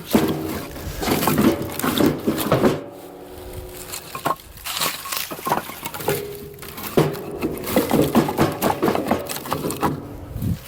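Split firewood pieces tossed one after another into a bundle bag, knocking against each other in a series of irregular wooden clunks, some with a short ringing tone.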